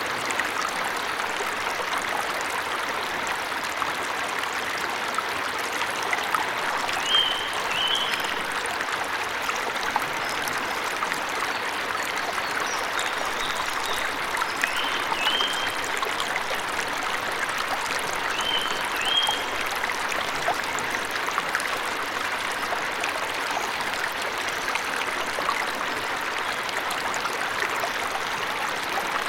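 Waterfall rushing steadily, with a songbird giving three short paired chirps, a quarter of the way in, about halfway, and again about two-thirds of the way through.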